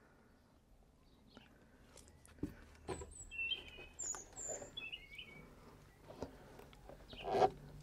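Small bird chirping a few times in the background, over faint knocks and clicks of the VW T4's plastic front bumper being worked onto its mounting bracket by hand, with a louder knock near the end.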